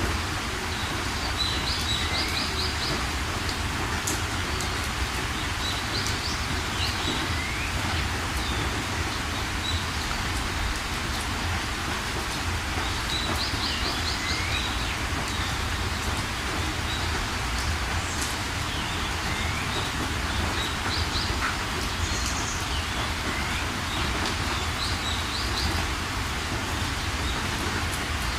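Steady heavy rain falling, with songbirds calling over it: repeated phrases of quick high chirps and short sliding notes every few seconds.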